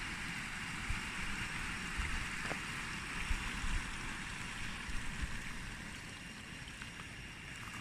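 Steady hissing outdoor ambience, with scattered low thumps of wind on the microphone.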